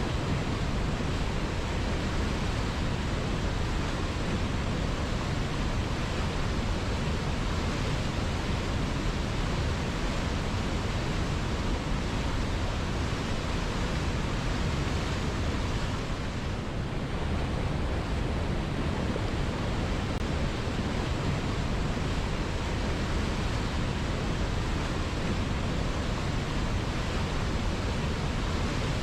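River water flowing, a steady rushing that holds even throughout.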